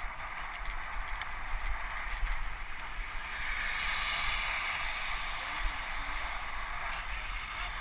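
Bicycle tyres rolling fast over a wet forest trail, with steady water spray and splashing. The sound grows louder in the middle, then eases again.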